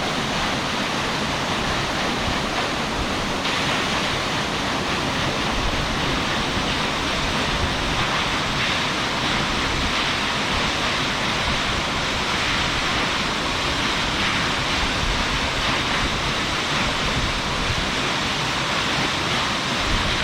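Large waterfall crashing into its pool, a steady, dense rush of falling water heard from in front of the falls.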